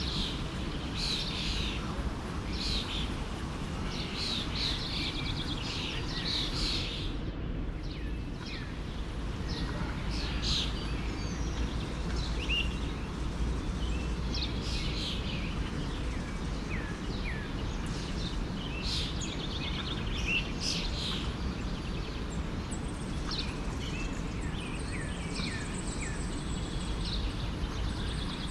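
Forest stream flowing with a steady rush, with songbirds chirping and calling over it in short, scattered phrases.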